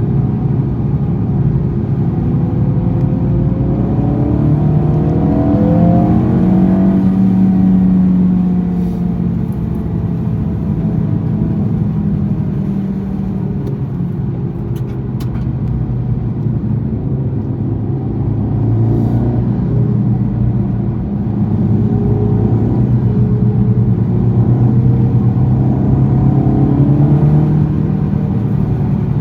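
Honda Civic Type R FL5's turbocharged 2.0-litre four-cylinder engine through a Mugen exhaust at lapping speed. The pitch climbs through the first several seconds as it accelerates, drops back and runs lower through the middle, then rises again in a second long pull near the end.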